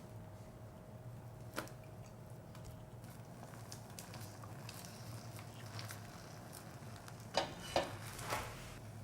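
Utensil handling a rolled egg omelette in a frying pan: a light click early, then three short scraping knocks against the pan near the end, over a faint low hum.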